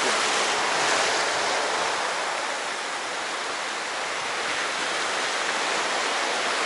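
Sea surf washing on the shore: a steady rush of waves that eases a little in the middle and builds again toward the end.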